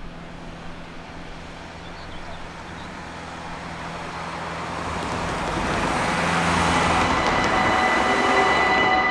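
Road traffic noise with an approaching vehicle's engine and tyre noise growing steadily louder, reaching its loudest about seven seconds in. A steady high tone sets in near the end.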